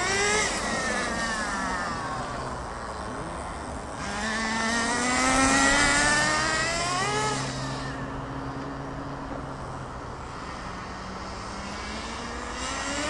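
Small SH 18 nitro engine in a radio-controlled truck, run hard on straight runs during its break-in. Its high buzzing pitch climbs as the truck accelerates, most strongly from about four seconds in, then falls away around seven seconds to a lower, steadier note, and starts climbing again near the end.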